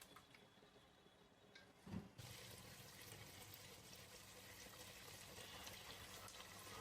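A soft knock about two seconds in, then water starts running steadily from a kitchen tap.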